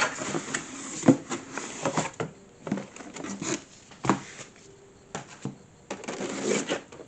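Cardboard box and packaging being handled: scattered knocks, scrapes and rustling, with sharp knocks about a second in and about four seconds in.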